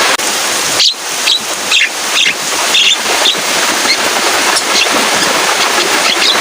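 Javan myna giving short, scattered high calls over a steady hiss of heavy rain.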